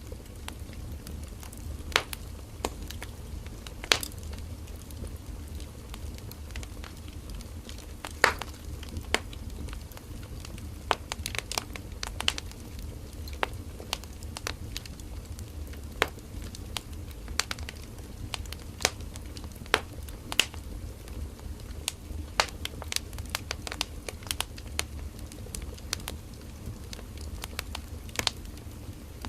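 Burning firewood crackling and popping: irregular sharp snaps, a few louder pops among many small ones, over a low steady rumble of the fire.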